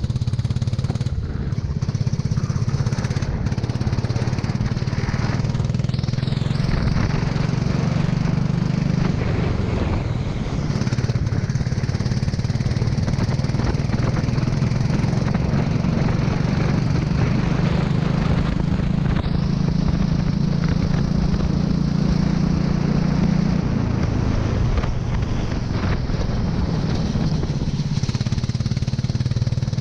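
Go-kart engine running under load, its pitch rising and falling with the throttle: a long climb that drops off sharply about three-quarters of the way in.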